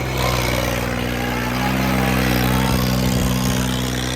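Tractor diesel engine running, its pitch and loudness rising about a second and a half in as it revs higher.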